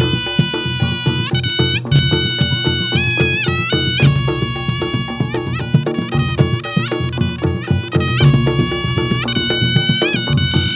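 Reog Ponorogo gamelan music: a reedy shawm plays a sliding, ornamented melody over fast, dense drum and gong percussion.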